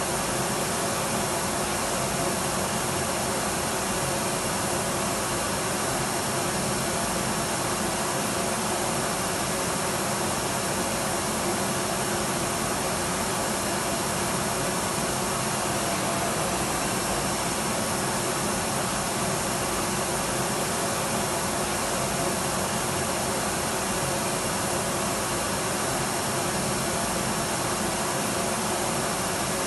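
Electric vacuum cleaner running continuously, a steady, even hiss and hum with no change in pitch or level.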